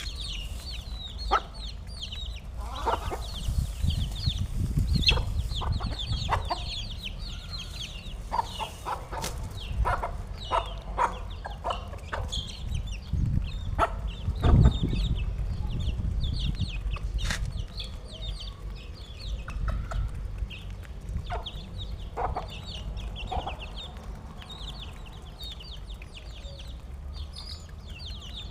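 A flock of chickens clucking, with many short high chirping calls and scattered clucks throughout, over a steady low rumble.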